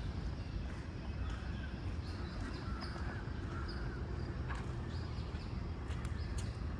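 Outdoor park ambience: birds chirping and calling in short scattered notes over a steady low background rumble.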